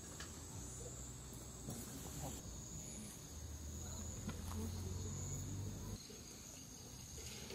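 Insects chirring in a steady, high-pitched drone, with a low hum swelling underneath partway through.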